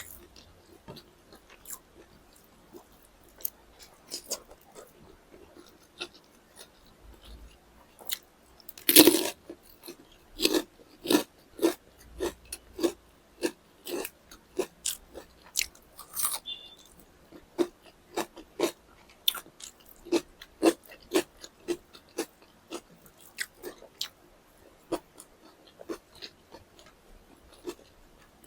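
Close-miked eating sounds: biting and chewing chicken drumsticks and rice, with crunchy bites. The loudest bite comes about nine seconds in, followed by steady chewing clicks about once a second.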